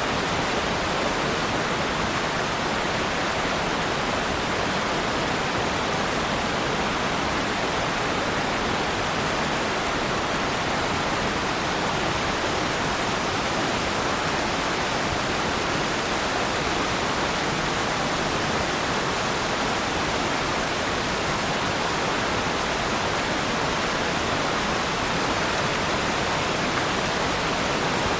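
Waterfall: a steady, even rush of falling water that does not change throughout.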